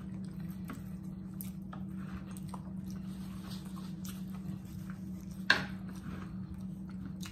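Close-up chewing and mouth sounds of people eating fried catfish with their fingers, with small wet smacks and clicks over a steady low hum. A single sharp click about five and a half seconds in.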